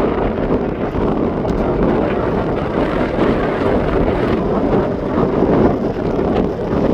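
Jet airliner engine noise, a steady rushing roar, with wind buffeting the microphone.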